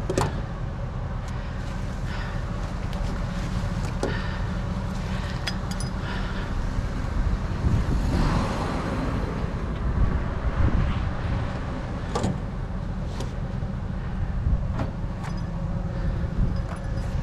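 A vehicle engine running steadily, a low rumble, with scattered sharp clicks and knocks from things being handled, and a louder rustling, knocking stretch about eight to ten seconds in.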